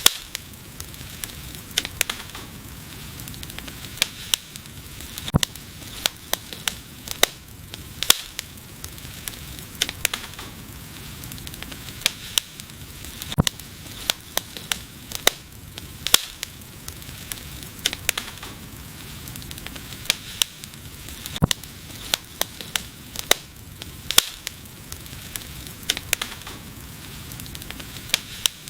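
Wood fire burning: irregular sharp crackles and pops, often several a second, over a steady hiss of the flames.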